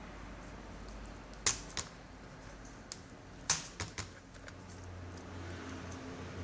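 Sharp clicks and taps of small hard parts being handled during netbook disassembly, about six irregular clicks in the middle of the stretch, the loudest about three and a half seconds in, over a low steady hum.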